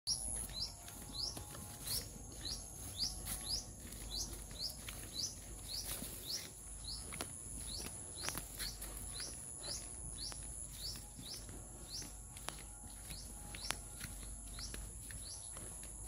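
A bird repeating a short rising chirp about twice a second, over a steady high-pitched insect drone, with a few scattered clicks.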